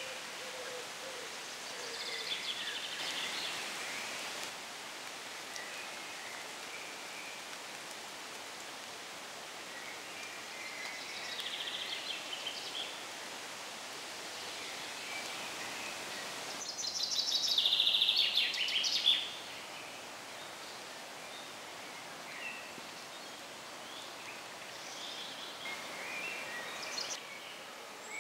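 Songbirds singing in short phrases over a steady outdoor hiss. The loudest phrase, a fast run of high notes, comes a little past the middle.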